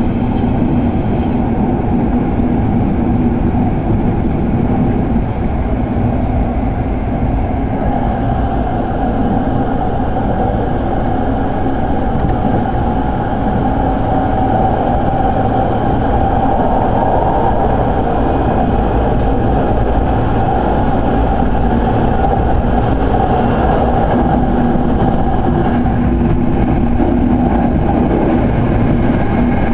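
Inside the car of a Sanyo Electric Railway 5000 series electric train running between stations: a steady rumble of wheels on rail and running gear, with a hum that grows stronger around the middle.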